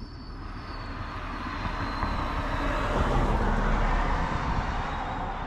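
A motor vehicle passing by, its noise building for about three seconds and then easing off.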